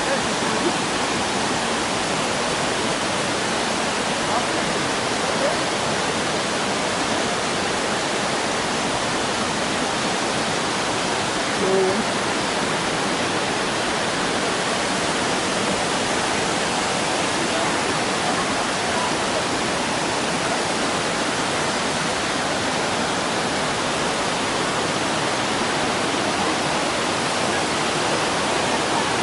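Waterfall water falling and splashing: a steady, even rush.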